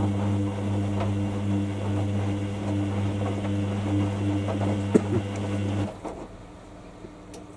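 Hoover WDYNS654D washer dryer running mid-cycle with a steady low electric hum, a click just before five seconds, then the hum cuts off suddenly about six seconds in.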